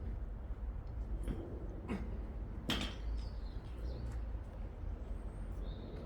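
Barbell and weight plates being handled: scattered metal clinks and knocks, the sharpest a little under three seconds in, over a steady low rumble.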